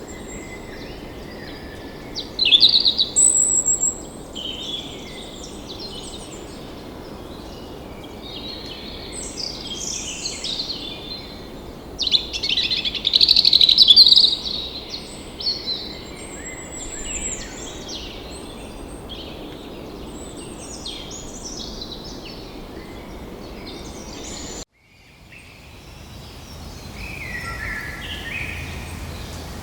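A flock of many small birds chirping and calling over one another, with two louder outbursts of calls, one a few seconds in and one about halfway; the sound drops out for a moment near the end, and the chirping carries on after it.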